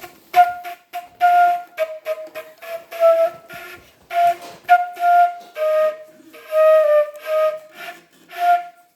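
A flute-type wind instrument played by a child: about fifteen short, breathy notes moving back and forth between two or three nearby pitches in a simple, halting tune.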